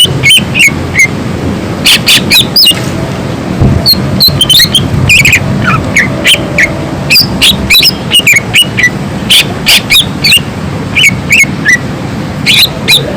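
Cucak ijo (green leafbird) singing loudly: fast runs of short, sharp whistled notes and chirps, many sliding up or down in pitch, with a brief pause a few seconds in.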